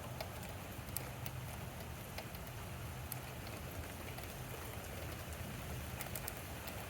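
Steady rain falling during a thunderstorm, with scattered sharp ticks of drops striking nearby and a steady low rumble underneath.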